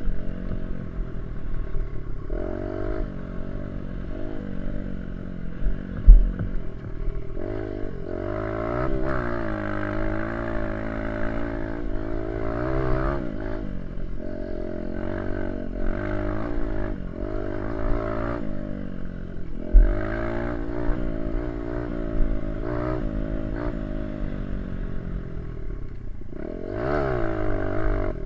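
Small dirt bike engine running while ridden, its pitch repeatedly climbing and dropping as it revs up and backs off. Two sharp thumps stand out over the engine, one a few seconds in and another about two-thirds of the way through.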